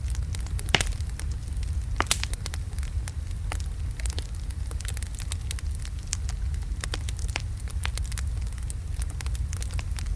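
Wood fire burning in a fireplace: a steady low rumble of flames with irregular sharp crackles and pops from the burning logs, the loudest pops about a second and two seconds in.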